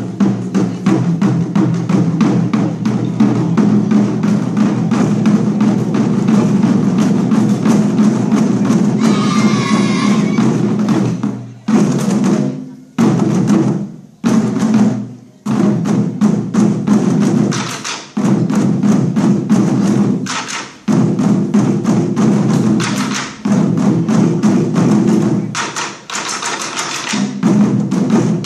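Chinese war drums played by a school drum team: loud, fast, densely packed drum strikes that break off for short, sharp silences several times in the second half and start again each time.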